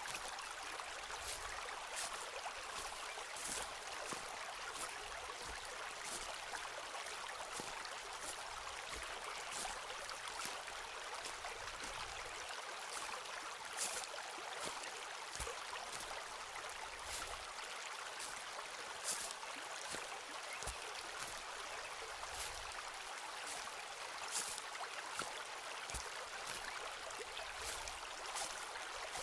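Footsteps crunching on a forest floor, short sharp crackles about once a second, over the steady rush of running stream water.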